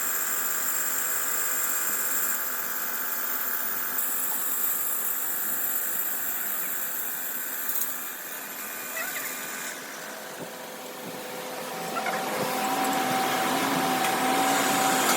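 Steady workshop machinery noise with high, steady whining tones. It dips quieter about two-thirds of the way through, then builds again.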